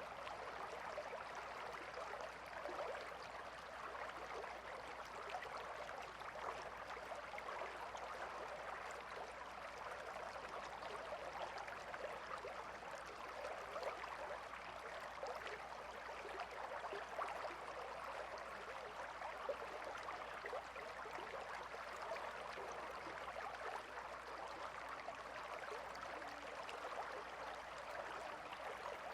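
A calm river flowing, a steady, even rush of water with fine trickling detail and no change throughout.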